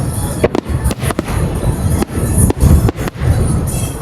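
Aerial fireworks bursting in a rapid series of deep booms and sharp bangs, with music playing along.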